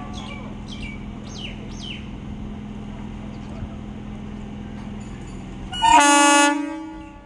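Indian Railways EMU local train running with a steady electric hum and rolling noise, then sounding its horn once, loudly, for about a second near the end.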